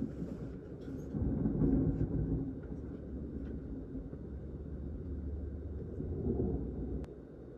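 Thunder rolling as a low, uneven rumble that swells and fades. A sharp click comes about seven seconds in, after which the rumble drops away.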